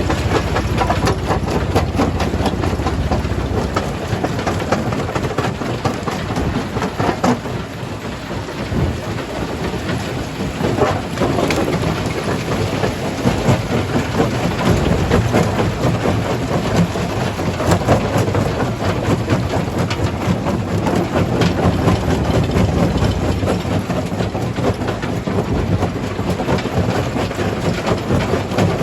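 Primary jaw crusher crushing stone: a loud, continuous rumble and clatter with many sharp cracks and knocks of rock breaking between the jaws.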